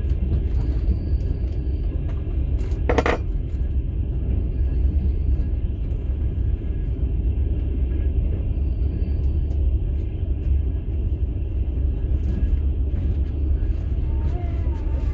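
Steady low rumble of a moving passenger train heard from inside a platzkart sleeper carriage. A brief metallic clink sounds about three seconds in.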